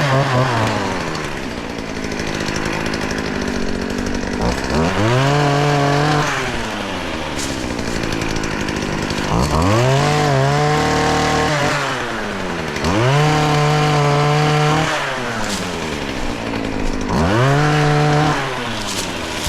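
Two-stroke chainsaw revved up to full throttle and held for about two seconds at a time, four times over, dropping back toward idle in between while cutting off limbs.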